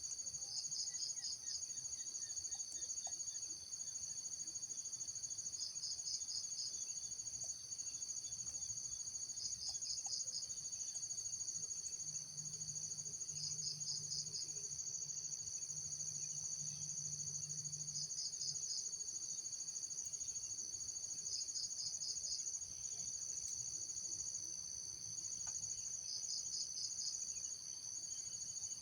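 Insect chorus: a steady, high-pitched drone of several insects, with a short pulsed trill of about five quick pulses repeating every three to four seconds.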